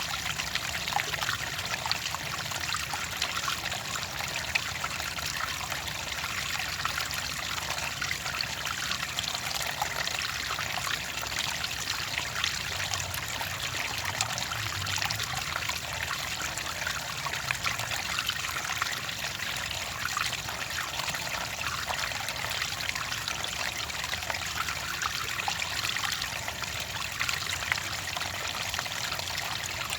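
Clear running water trickling and splashing steadily, with many small overlapping splashes.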